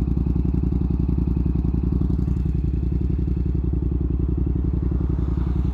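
Yamaha MT-07's CP2 parallel-twin engine with an aftermarket exhaust, running steadily at low revs with an even beat and no change in pitch.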